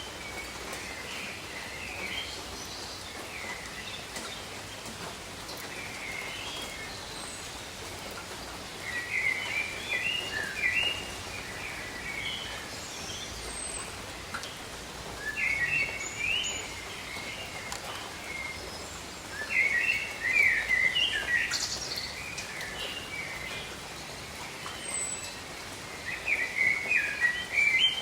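Steady rain falling on rainforest foliage, with birds singing over it in short bursts of quick chirping phrases every several seconds.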